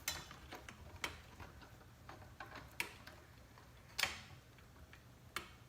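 Scattered sharp clicks and taps of ceiling-fan parts being handled as a blade is fitted and screwed onto its blade arm, about five in all, the loudest about four seconds in.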